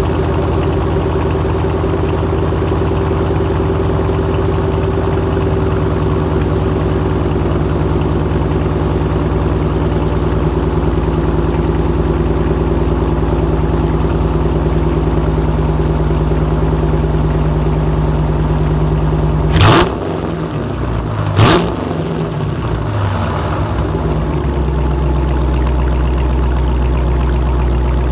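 2014 Dodge Challenger R/T's 5.7-litre HEMI V8 through a straight-piped exhaust, idling steadily after a cold start. It is blipped twice in quick succession about twenty seconds in, then settles back to a deeper idle.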